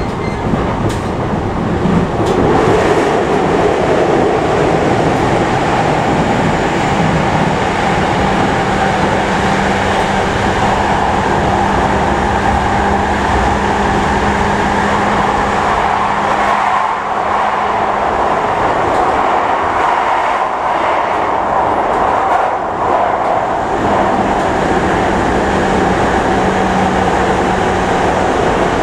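Cabin noise of a JR E233-5000 series electric train running at speed: a steady rumble of wheels on rail and running gear, with a low steady hum that fades out and comes back partway through.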